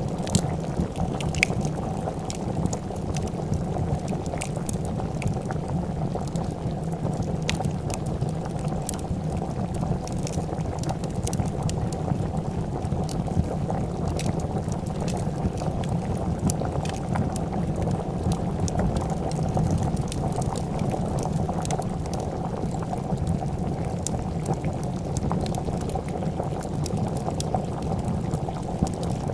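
A pot of soup boiling steadily, with continuous bubbling and scattered sharp crackles and pops from a wood fire.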